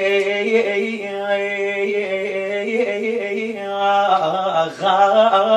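A man's voice chanting a long, drawn-out melodic phrase in the style of a Shia latmiya or eulogy recitation. The note is held steady for several seconds, then turns into wavering ornaments near the end.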